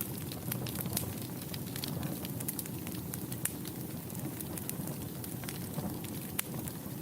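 Wood fire burning in a fireplace: a steady low hiss with frequent small, irregular crackles and pops.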